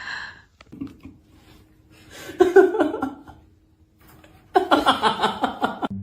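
A person laughing in two bursts, the second longer and choppier.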